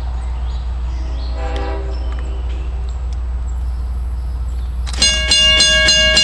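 A faint, distant diesel locomotive horn sounds briefly about a second and a half in, over a steady low rumble. About five seconds in, a grade-crossing warning bell starts ringing loudly in rapid, even strikes, about three a second, as the crossing signals activate for the approaching train.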